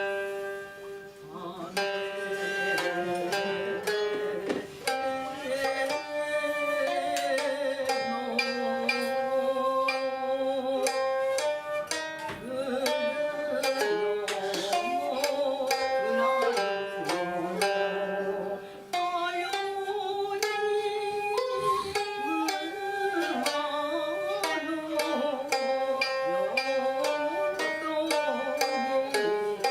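Traditional Japanese sōkyoku ensemble music: a koto's plucked strings under the sustained, sliding notes of a shakuhachi.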